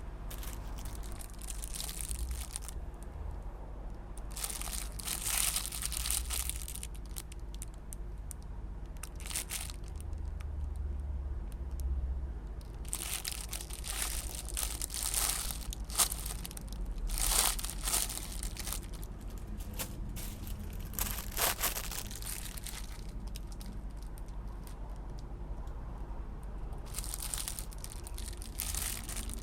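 Plastic and paper packaging crinkling and tearing in irregular bursts as a package is unwrapped, over a low steady hum.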